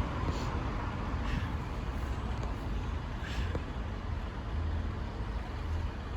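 Steady low rumble of idling vehicle engines with outdoor traffic noise.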